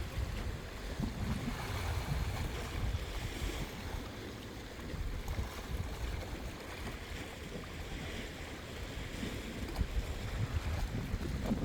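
Wind buffeting the microphone in uneven gusts, a low rumble over a steady hiss.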